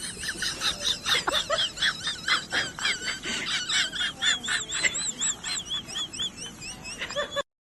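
Small bird chirping: repeated short, high-pitched chirps that waver in pitch, about two or three a second, over background noise. The sound cuts off suddenly near the end.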